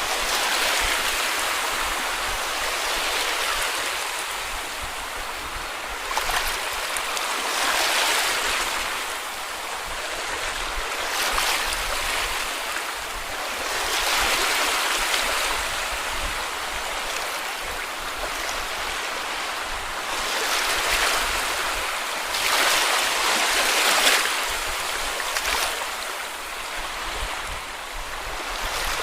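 Small sea waves breaking and washing up a beach, a steady hiss of surf that swells with each wave every few seconds.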